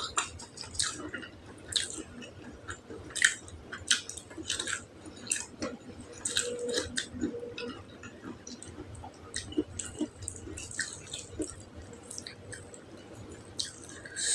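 Close-up chewing of tender, saucy beef tongue: wet, irregular mouth smacks and squelches.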